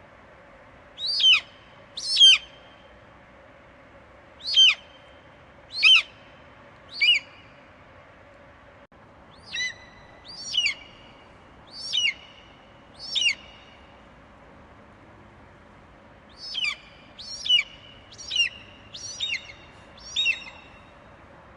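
Eagle screeching: short, high calls that slide sharply downward, in three bouts of five or six calls each, over a faint steady hiss.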